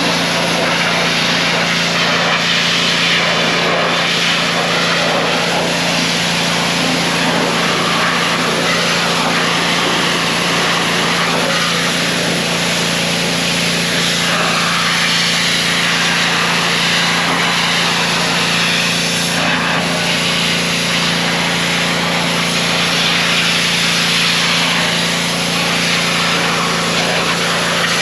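A motor running at a constant speed with a loud, steady hiss over it, unchanging throughout.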